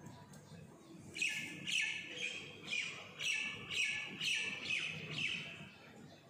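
A bird calling in a run of about nine short, high chirps, each falling in pitch, about two a second.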